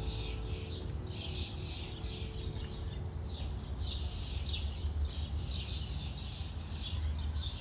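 Small birds at a bird feeder chirping repeatedly, short high chirps about one to two a second, over a steady low hum.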